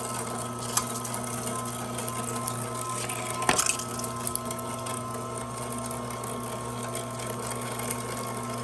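Amzchef slow masticating juicer's motor running steadily with the meat grinder attachment fitted, a constant hum with a thin whine over it. A faint click comes just under a second in, and a sharper knock about three and a half seconds in.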